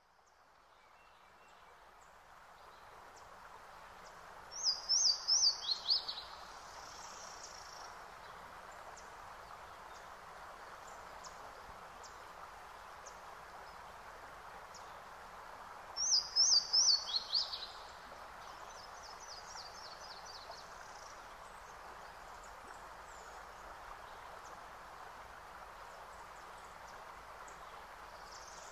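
Nature-sound background: a steady hiss fades in at the start, and a songbird's short phrase of quick, high chirps comes twice, about twelve seconds apart.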